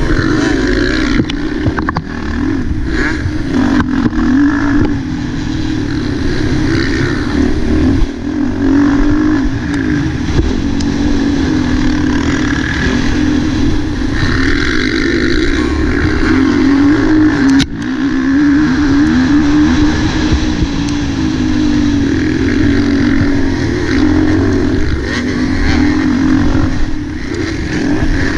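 Motocross bike's engine running hard under the rider, heard from an on-board camera, its revs rising and falling continuously and dipping briefly three times.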